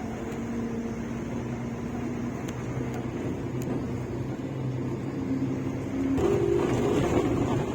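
Bus engine running with a steady drone, heard from inside the bus, its low tones shifting in pitch every few seconds; about six seconds in it gets louder and rougher.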